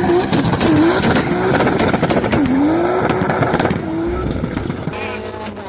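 Car engine revving hard, its pitch dipping and climbing again and again, with sharp cracking pops. Near the end the sound cuts to a quieter, steadier engine note.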